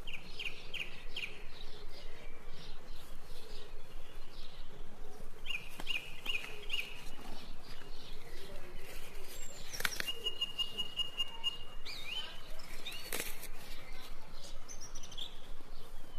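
Wild birds chirping: quick runs of short high notes, and near the middle one long steady whistled note. A few sharp clicks are also heard.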